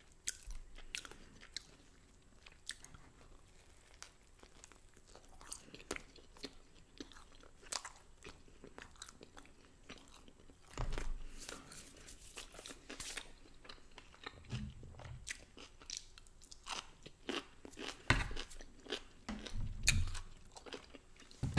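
A person chewing and biting food close to the microphone, with small crunches and clicks throughout and a few duller thumps in the second half.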